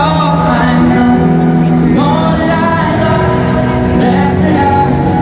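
Live concert music through a stadium PA: a male singer sings a slow melody over acoustic guitar.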